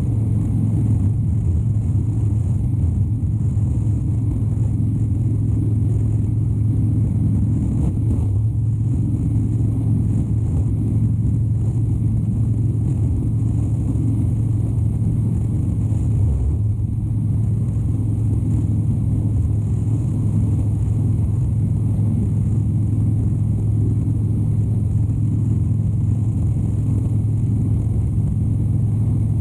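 2013 Harley-Davidson Dyna Wide Glide's 103 ci air-cooled V-twin running under way at a steady cruise, a steady low engine and exhaust drone with road noise, easing briefly twice.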